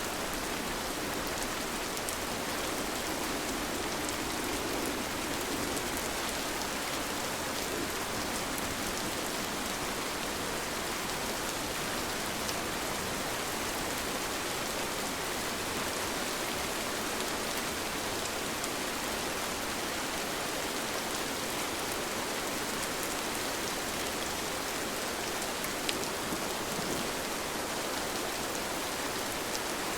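Steady rain falling, a continuous even hiss with scattered individual drops ticking through it.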